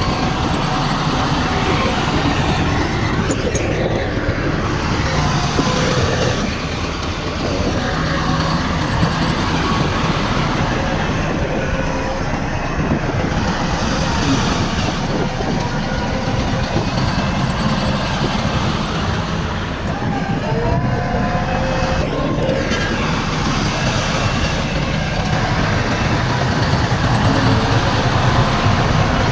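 Diesel engines of heavy earthmoving machinery, a bulldozer and dump trucks, running loudly and steadily under load. The engine note rises and falls a few times.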